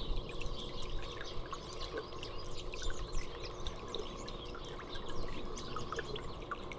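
Small birds chirping: many short, high calls in quick succession, over a steady background hiss.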